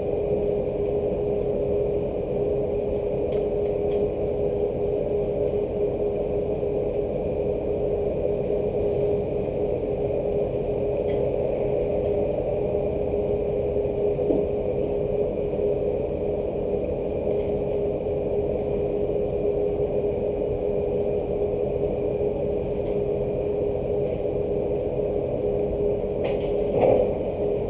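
A steady mechanical hum at one constant pitch, with a faint higher whine above it. A short knock comes near the end.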